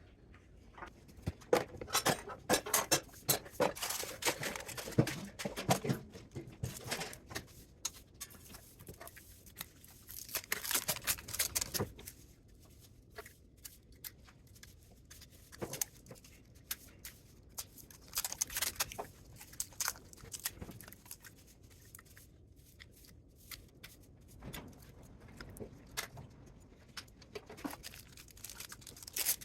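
Thin metal foil being pulled, torn and crumpled by hand, crinkling and crackling in several bursts of a few seconds each with quiet pauses between.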